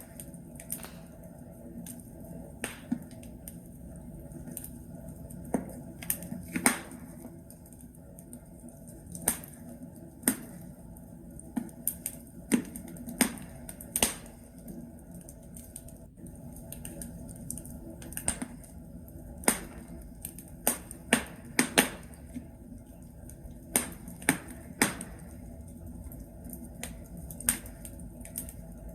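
Wood logs burning in a fireplace, crackling with irregular sharp pops, some single and some in quick clusters of two or three, over a steady low hiss of the fire.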